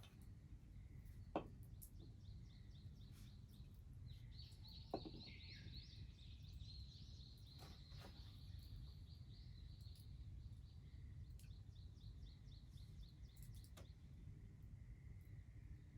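Quiet ambience with a steady low rumble, over which a small bird twitters in a long trill from about four to eleven seconds in. Two sharp knocks sound about a second and a half and five seconds in.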